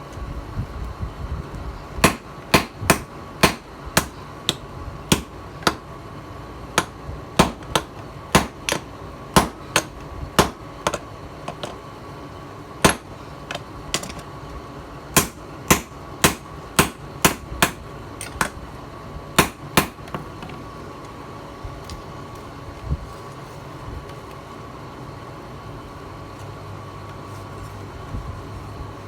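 Hand hammer striking a steel blade on an anvil: a run of sharp blows, roughly two a second, that stops about two-thirds of the way through, leaving only a stray blow or two. A steady hum with a faint whine runs underneath.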